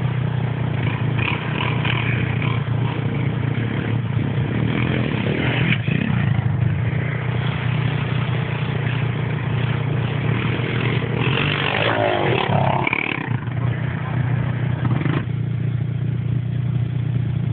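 Pit bike engine running steadily throughout, with some changes in throttle.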